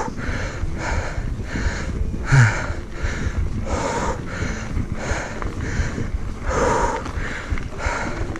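A mountain biker breathing hard while pedaling uphill: rhythmic, noisy breaths about two a second over a low rumble of wind and riding noise.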